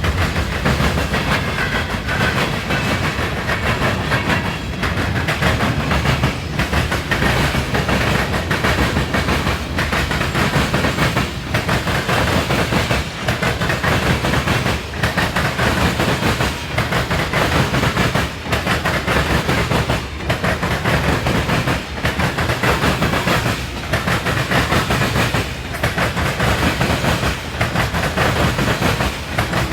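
Freight cars of a manifest train rolling past at speed, steel wheels clattering over the rail joints in a repeating rhythm that comes round about every two seconds.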